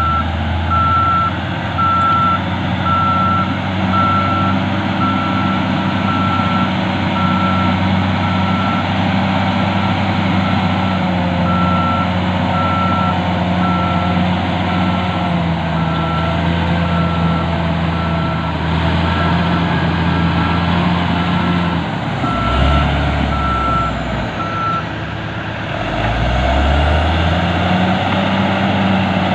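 Heavy earthmoving machine's diesel engine running with its backup alarm beeping steadily at an even pace. The beeping stops near the end, as the engine drops and then revs up again.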